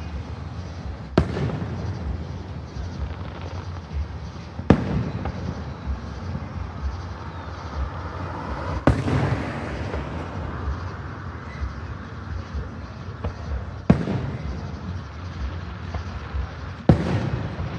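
Aerial fireworks bursting: five loud, sharp bangs a few seconds apart, each with a short echoing tail, over a steady background noise.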